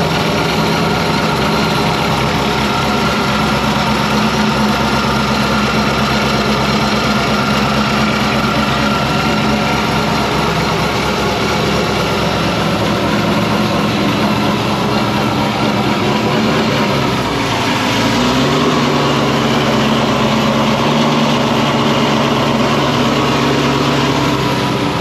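V8 car engine idling steadily, its note dipping briefly about two-thirds of the way through before settling again.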